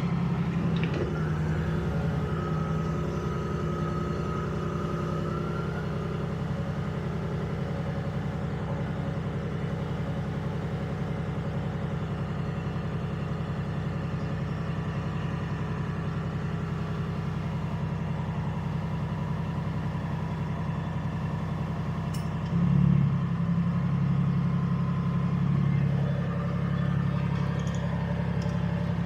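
M113 tracked vehicle's engine running steadily, with the revs briefly rising about 23 seconds in.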